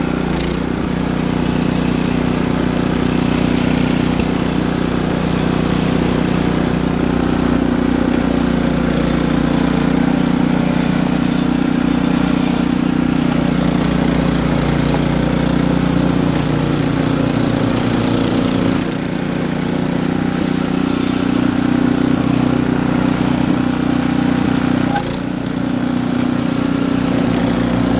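Snowblower engine running steadily under load, with two brief dips in level, about two-thirds of the way through and near the end.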